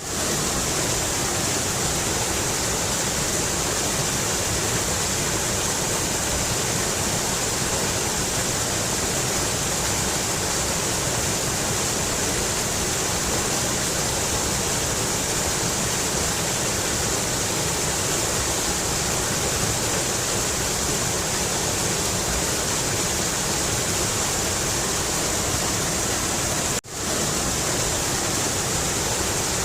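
Mountain river water rushing steadily, an even hiss of flowing water that cuts out for an instant near the end.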